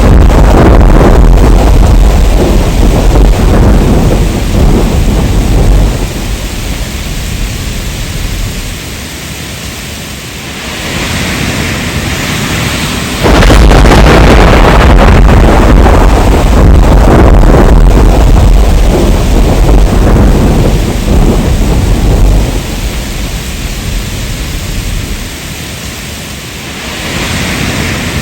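Heavy rain with thunder: a loud, deep rolling rumble under the steady hiss of rain dies away over several seconds, leaving mostly rain. A fresh loud rumble starts abruptly about halfway through and again fades to rain.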